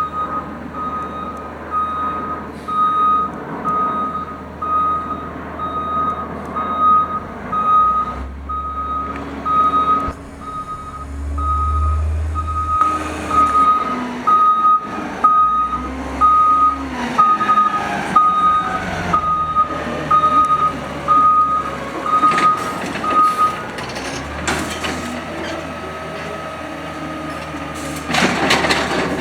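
Garbage truck backing up, its reversing alarm beeping steadily over the engine, which revs up and settles in the middle. The beeping stops, and near the end a loud crunching clatter starts.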